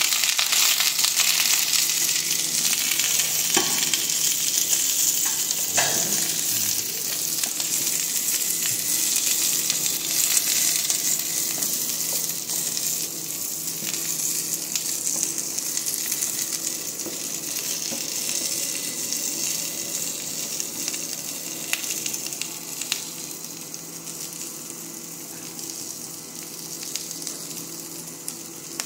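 Chopped bok choy sizzling in hot oil with fried garlic, stir-fried with a wooden spatula that gives an occasional knock or scrape against the pan. The sizzle is loudest at first and slowly fades.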